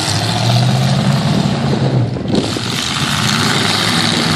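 Pickup truck engines running loud during a demolition derby, one engine's note dropping out about two seconds in and returning at a higher pitch as it revs up.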